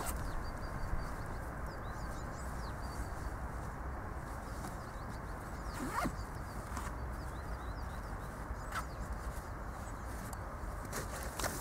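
Small birds chirping, many short repeated calls, over a steady outdoor background hiss, with a few sharp rustles and knocks as fishing gear is handled in a bag.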